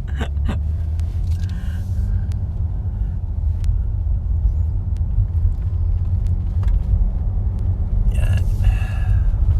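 Steady low rumble of a car driving slowly along a road, heard from inside the cabin.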